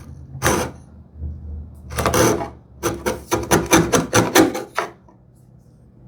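A wood chisel paring wood in short scraping strokes: a few separate strokes, then a quicker run of about five strokes a second in the second half.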